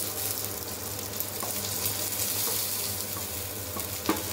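Sliced onions going into hot oil with curry leaves, green chillies and garlic in a frying pan, sizzling steadily over a low hum. A few light clinks, and a sharper knock near the end.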